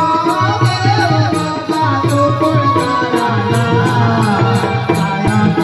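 Naman folk theatre music: a sung melody over held tones and a steady beat of high jingling percussion, about three strokes a second.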